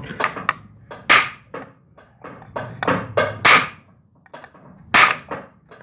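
Irregular metal knocks and clinks, a few sharp ones ringing briefly, as bucket-type hydraulic lifters are pulled out of a cylinder head with hand tools.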